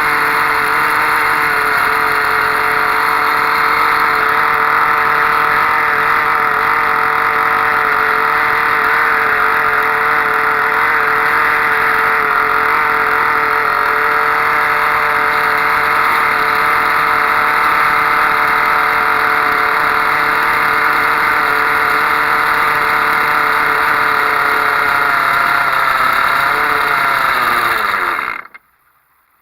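Tiny 0.78 cc Soviet OTM-08 Kolibri model-boat engine running steadily at a high, even pitch on an ether-kerosene-oil diesel fuel mix. Near the end its speed sags, the pitch falls, and it stops abruptly.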